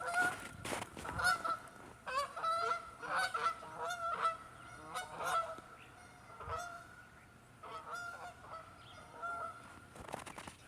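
Geese honking, many short calls overlapping for most of the stretch and thinning out near the end, with a few footsteps crunching in snow.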